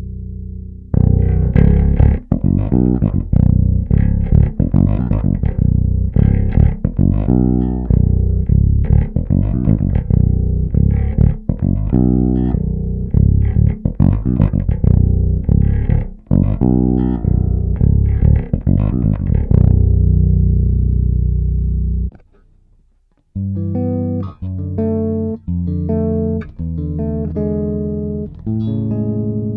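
Five-string Music Man StingRay 5HH-style electric bass with two humbuckers, recorded direct with a flat EQ and no compression, playing heavy low notes on the B string. The playing stops about 22 seconds in, and after a short silence resumes with higher melodic, chordal notes.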